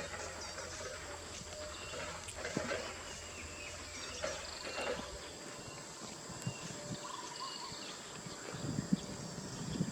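Birds giving short scattered chirps and trilled calls over a steady high-pitched insect drone, with a low hum that stops about halfway through.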